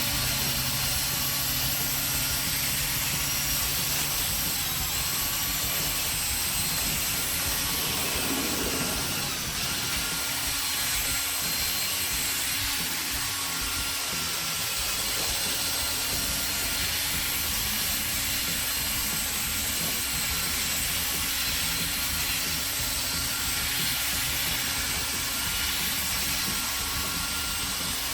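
Electric drill running steadily with a sanding pad spun against the plastic headlight lens, a continuous whirring hiss as the yellowed headlight is dry-sanded.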